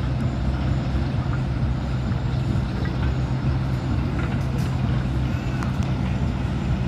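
A large engine running steadily with an even low hum.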